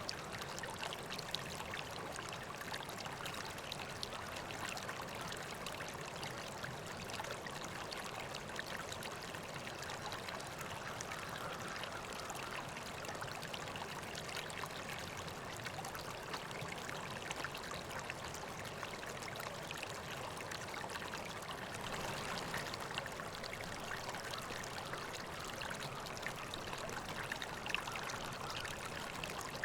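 River water flowing steadily, a continuous rushing and splashing.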